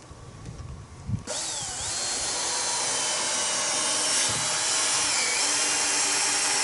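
Electric drill-driver starting up about a second in and then running steadily, its high motor whine dipping briefly before settling.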